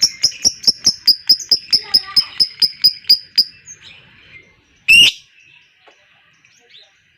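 Lovebird's long 'ngekek' chatter: a fast run of sharp, evenly spaced notes, about six a second, lasting some three and a half seconds. One loud harsh call follows about five seconds in. This long chatter is the excited song that lovebird keepers play as a lure to set other lovebirds singing.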